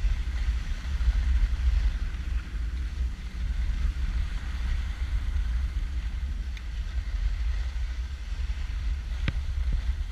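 Wind buffeting the camera microphone, a steady low rumble, with a single short click about nine seconds in.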